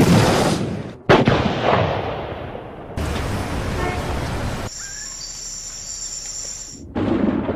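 A string of separate sound-effect clips cut one after another: a loud bang at the start and another about a second in, each dying away, then a stretch of steady noise, then quieter noise with thin, high, steady whistling tones, and another sudden loud sound near the end.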